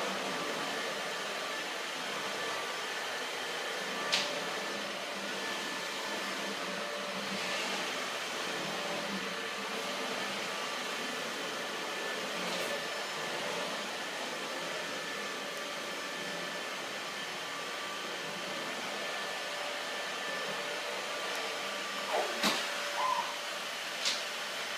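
Steady whooshing drone of a running household appliance motor, loud and even throughout. A few sharp clicks or taps sound over it, several of them close together near the end.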